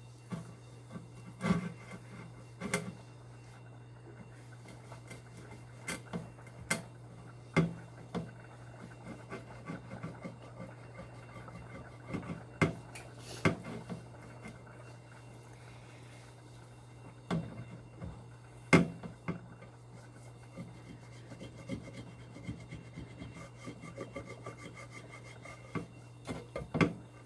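A glass microwave turntable being wiped and scrubbed by hand, with soft rubbing and scattered sharp clinks and knocks as the glass is handled. A steady low hum runs underneath.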